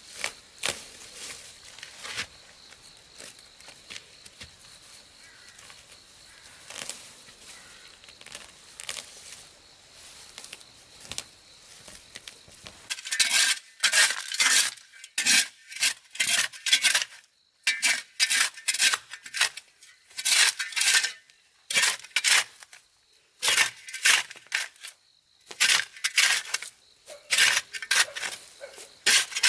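Faint handling sounds with scattered clicks, then from about halfway through, loud repeated scraping strokes in quick runs with short pauses between them.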